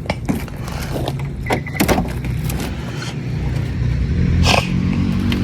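A car engine running with a steady low hum that grows louder near the end, over a few irregular crunching footsteps on icy ground.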